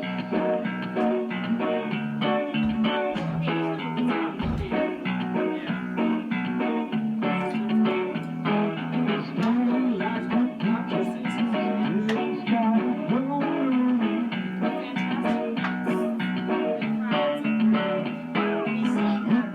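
Guitar-driven blues-rock band music with electric guitar and bass, steady throughout, with bending guitar notes.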